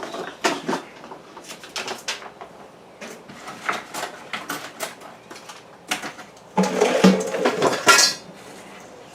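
Hard objects knocking and clinking in a string of short, sharp clatters, with a longer, louder clattering stretch from about six and a half to eight seconds in.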